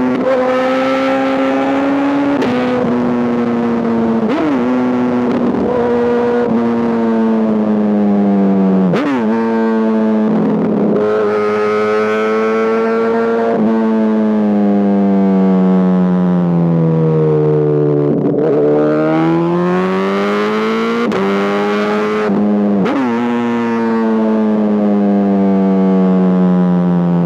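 Honda CBR1000RR's inline-four engine running hard through an SC-Project aftermarket exhaust, its note held high and slowly sinking, then climbing again, with brief breaks in the note every few seconds as the throttle is cut and gears change.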